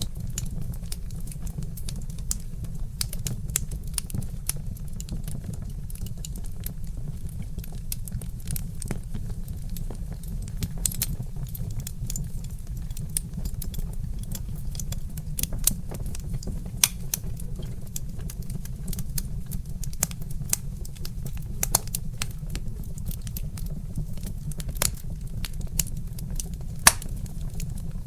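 Wood fire crackling: irregular sharp pops and snaps over a steady low rumble, with a few louder snaps in the second half.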